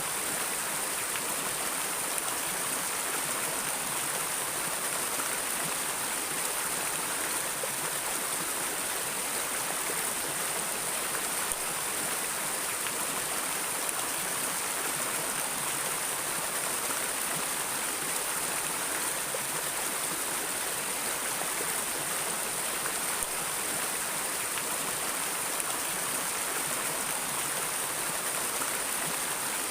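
Steady rushing of a flowing stream of water over rocks, an even hiss with no breaks.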